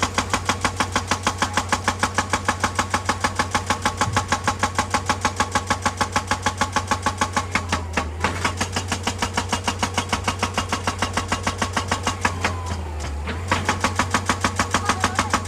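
Excavator-mounted hydraulic breaker hammering rock in a fast, even rhythm of about four to five blows a second, over the excavator's engine running steadily. The hammering stops for about a second near the end, then resumes.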